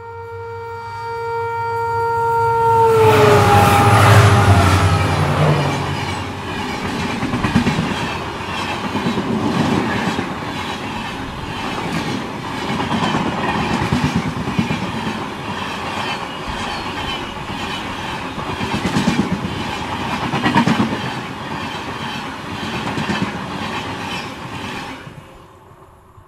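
Indian Railways express train passing at speed: the locomotive's two-tone air horn sounds steadily, its pitch dropping as the locomotive goes by about three seconds in. The coaches then rush past for about twenty seconds with a regular clickety-clack of wheels over rail joints, which stops abruptly near the end as the train clears.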